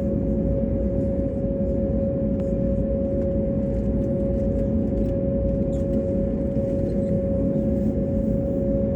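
Steady low rumbling drone of an airliner on the ground during deicing, with a constant mid-pitched hum over it.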